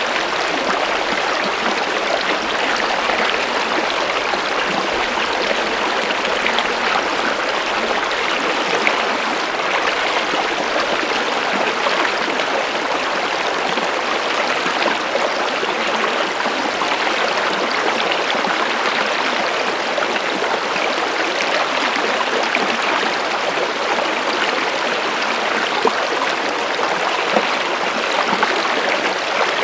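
Steady rushing and babbling of flowing stream water.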